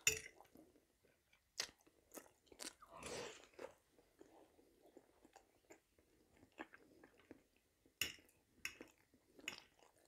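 Close-miked chewing and biting on a mouthful of fried potatoes, quiet, with scattered short sharp clicks and smacks and a longer rustling spell about three seconds in.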